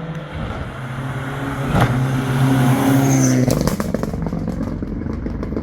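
Historic rally car engine at high revs passing by, its note climbing to a peak about two to three seconds in and then dropping away, followed by a rapid spray of sharp crackles.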